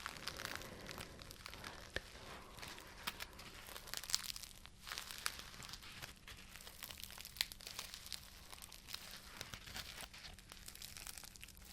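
Crinkling and crackling: a dense, irregular run of small sharp crackles, as of something being crumpled close to the microphone.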